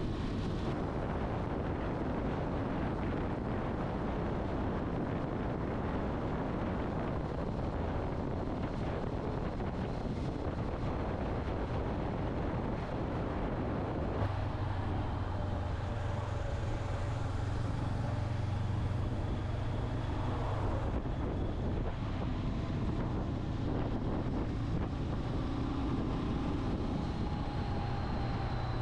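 Motorcycle under way: wind noise on the microphone over the engine, with a steady low engine drone coming through from about halfway.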